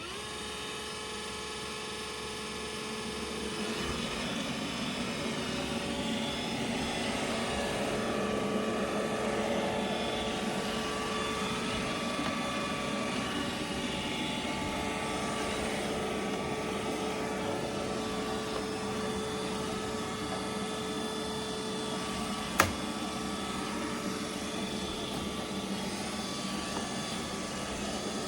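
Robot vacuum cleaner running steadily, a continuous whir with a high motor whine, getting a little louder about four seconds in. One sharp knock comes about three-quarters of the way through.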